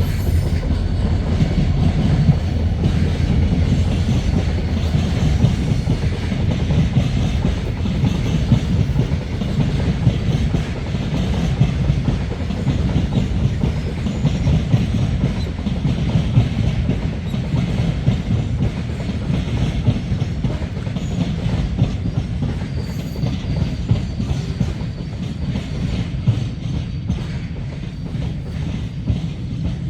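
Train running by with a steady heavy rumble and rapid clacking of its wheels over the rail joints, easing off slightly near the end.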